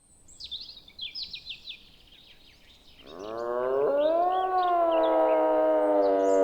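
Birds chirping in quick, high, downward-sweeping notes. About three seconds in, a loud sustained musical note swells in, slides up in pitch and then holds steady under the birdsong.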